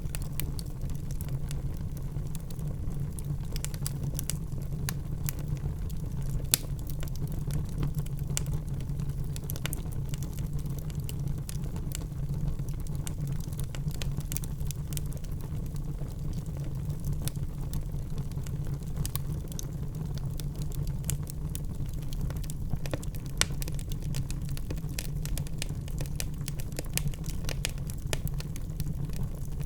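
Wood fire burning in a fireplace: a steady low rumble of flames with frequent small crackles and snaps, and two louder pops.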